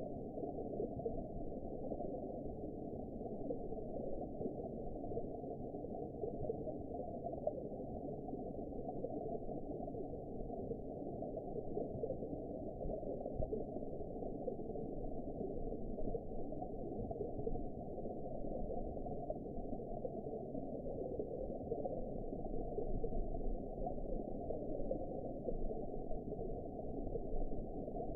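Steady underwater ambience: a deep, muffled wash of water with nothing in the upper range and no distinct events.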